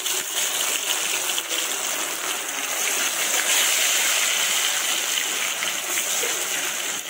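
Food deep-frying in hot coconut oil in a pan: a steady, crackling sizzle.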